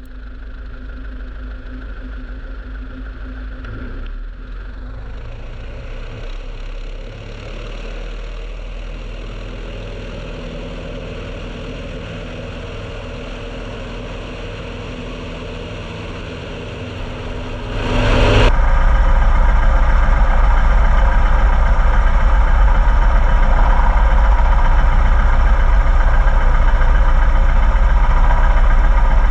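Piper Super Cub floatplane's engine and propeller running steadily at low taxi power, then throttled up sharply to full power about two-thirds of the way through, much louder from then on, as for the takeoff run.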